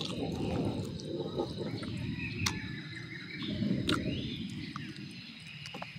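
Chewing and mouth noises close to the microphone as someone eats roasted meat and leafy greens, fading toward the end, with birds chirping faintly in the background.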